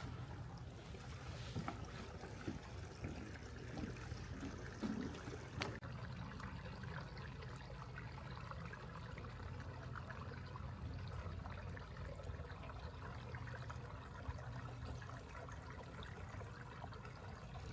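Steady trickle of a small brook's flowing water.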